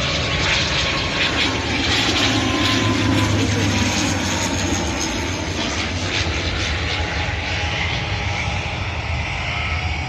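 Airliner's engines passing close, a loud steady rush with a faint whine that slowly falls in pitch.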